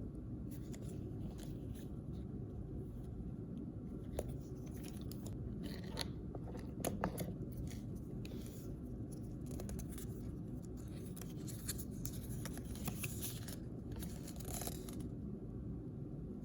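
Toy packaging being handled and opened by hand: on-and-off crinkling and rustling with small sharp clicks and scrapes, over a steady low hum. The handling stops about a second and a half before the end.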